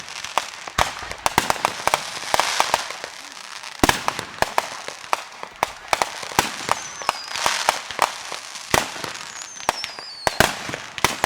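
Fireworks going off: a rapid, irregular string of sharp bangs and crackling, with two whistling fireworks falling in pitch about two-thirds of the way in.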